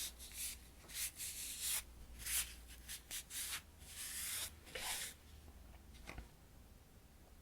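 Foundation being wiped off a hand: a run of quick, soft rubbing strokes that die away after about five seconds.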